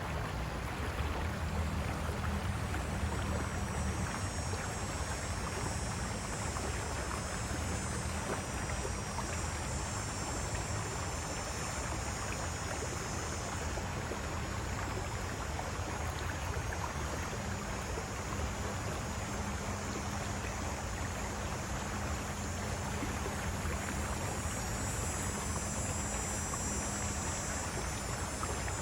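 River water rushing over rocks in a steady, even roar. A high, thin insect drone rides on top of it, swelling a few seconds in and again near the end.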